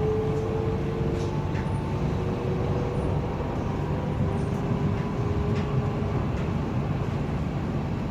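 Frankfurt U-Bahn train running, heard from inside the car: a steady low rumble with faint humming tones above it.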